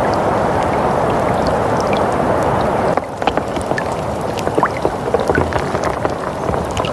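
Winter ambience soundscape: a steady rushing noise like wind or rain. About three seconds in it switches abruptly to a lighter bed full of small crackles and clicks.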